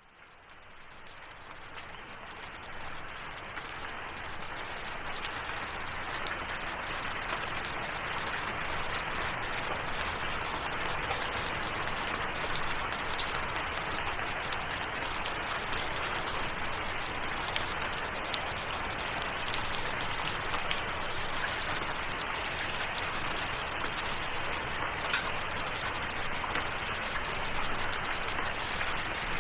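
Steady rainfall with individual drops pattering and clicking. It fades in from silence over the first few seconds, then holds even.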